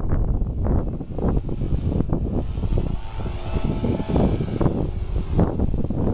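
Electric 450-size RC helicopter (Walkera V450D01) flying 3D, its motor and rotor whine rising and falling in pitch, under heavy wind buffeting on the microphone.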